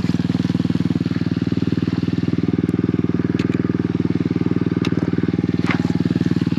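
Small pit bike engine running steadily at one pitch, with a few light clicks and rattles over it.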